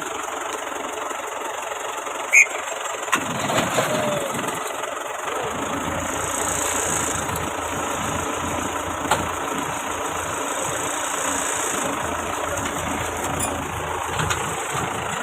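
A motor vehicle engine running steadily, its low rumble building up about three seconds in. A few short sharp sounds stand out, the loudest about two seconds in.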